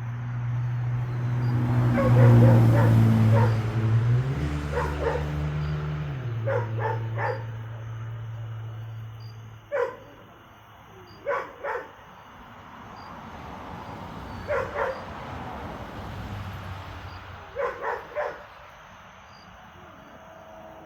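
A dog barking in short bursts of one to three barks. Over the first half a low engine hum swells, is loudest a couple of seconds in, shifts in pitch and fades out by about ten seconds in.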